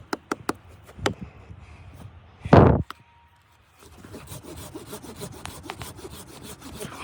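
Hand work on wood: a few sharp knocks, then one loud rasping stroke about two and a half seconds in, followed after a short pause by a run of small crackles and scrapes.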